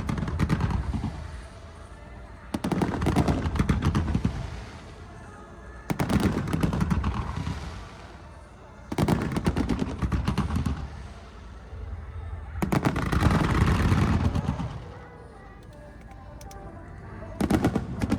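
Aerial fireworks going off in rapid salvos: dense runs of bangs and crackles, each lasting one to two seconds, coming about every three seconds, with a low rumble between them.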